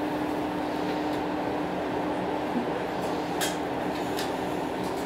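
Steady low hum of a stationary ET122 diesel railcar, heard from inside the car as it stands at the platform before departure. A steady tone in the hum fades out about two seconds in, and a few faint clicks come near the end.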